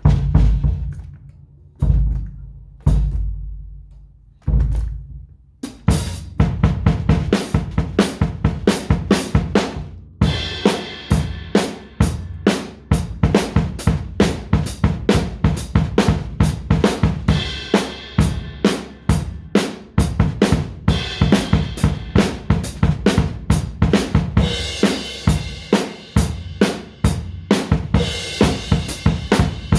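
Drum kit played solo: four heavy low drum hits that ring out over the first five seconds, then a fast, steady groove of kick and snare from about six seconds in, with cymbals joining at about ten seconds.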